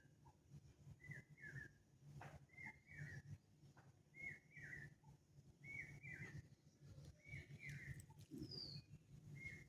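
A faint animal call repeated about every one and a half seconds, each call a pair of short falling chirps, over a steady low hum.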